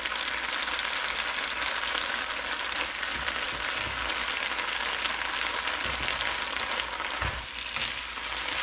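Water spinach sizzling in a hot oiled nonstick wok while being stirred and tossed with wooden chopsticks: a steady frying hiss with a few soft knocks.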